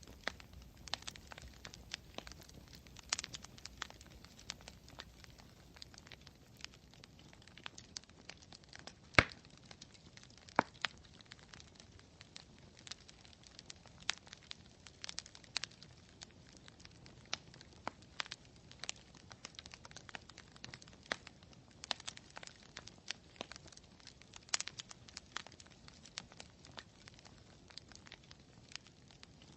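Campfire crackling: burning wood gives off irregular sharp pops and snaps, with one louder pop about nine seconds in.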